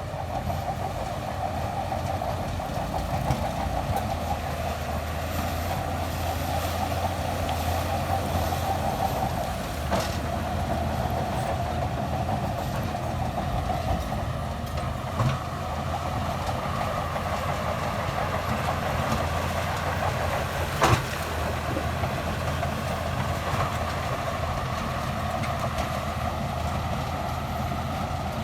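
A crawler bulldozer's diesel engine running steadily under work, with a few sharp knocks; the loudest knock comes about 21 seconds in.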